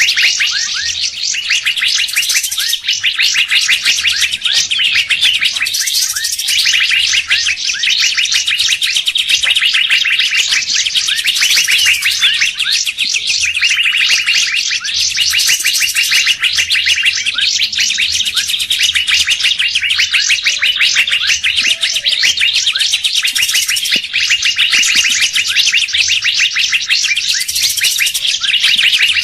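Bird-lure recording of songbirds: a dense, unbroken run of rapid, high chirps and trills, rising in brighter phrases every few seconds like a loop.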